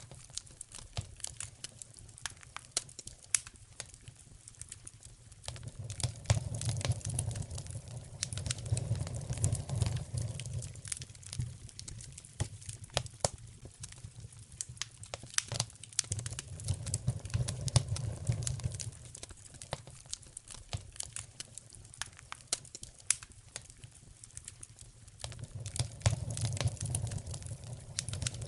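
Wood fire crackling in a fireplace, with sharp pops and snaps throughout. A low rumble swells and fades three times.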